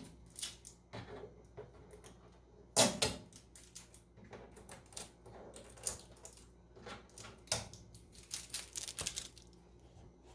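Irregular clicks, crackles and knocks of packing tape and cardboard being pulled off and handled around a new countertop microwave, a few louder snaps among them.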